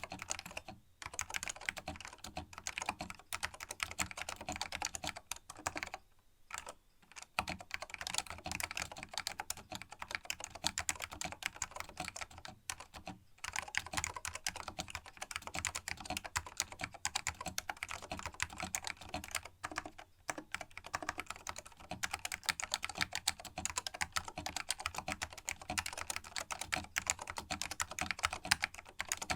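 Continuous fast typing on a vintage Canon A200-AKB keyboard with linear green Alps switches, a dense stream of key clicks broken by a few brief pauses. The switch springs have been lubed to stop their ping.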